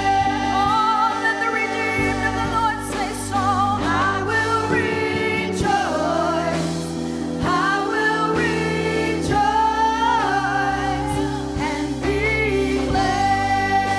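Gospel worship music: a choir singing over sustained keyboard chords and bass.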